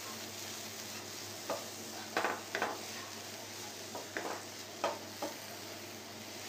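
Grated bottle gourd sizzling in hot oil in a frying pan while it is stirred with a wooden spatula. The spatula scrapes and knocks against the pan about half a dozen times, with the gourd frying to dry out its water.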